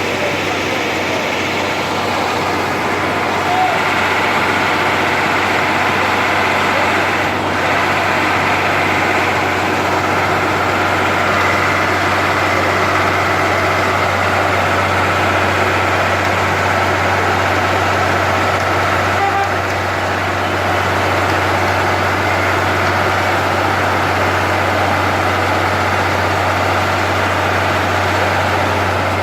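Engines of heavy road-building machinery running steadily, with a constant low hum.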